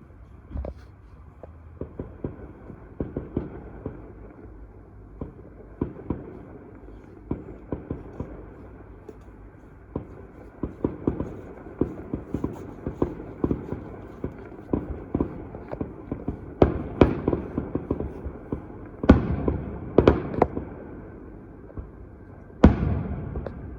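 Many fireworks going off: a dense, irregular scatter of bangs and crackles, with several louder bangs in the last third.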